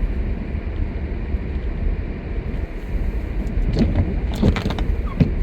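Car driving slowly on snowy road, heard from inside the cabin: a steady low rumble of engine and tyres, with a few short clicks and knocks in the second half.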